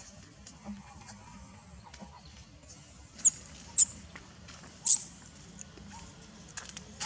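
Baby monkey squeaking: three short, high-pitched squeaks a little past the middle, with faint light rustling and tapping around them.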